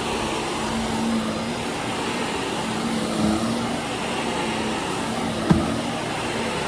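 Carpet vacuum cleaner running steadily with a constant hum, and a single sharp click about five and a half seconds in.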